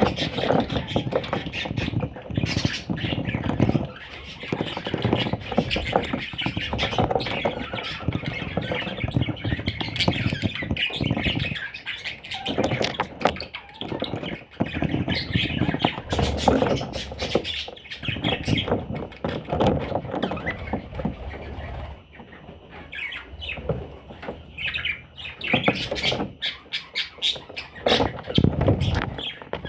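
Pet parrots squawking and chattering almost without pause, with many small sharp clicks and taps mixed in. It drops off briefly about two-thirds of the way through.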